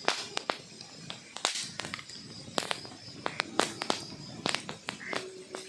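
Wood logs burning in a fireplace, crackling with irregular sharp pops and snaps over a soft hiss.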